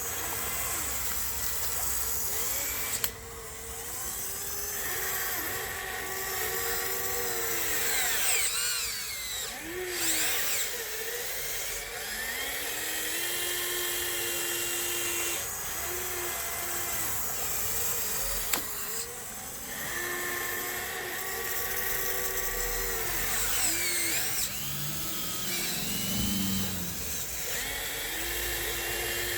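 Electric drive motors and gearboxes of a Huina 1554 RC bulldozer whining in repeated bursts. The pitch rises and falls as it starts, pushes and stops, with an occasional sharp click.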